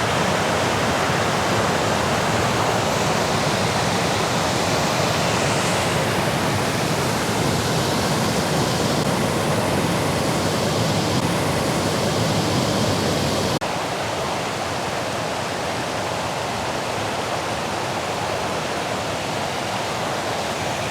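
Small river waterfall rushing steadily, an even water roar. About two-thirds of the way through it turns abruptly a little quieter and thinner in the low end.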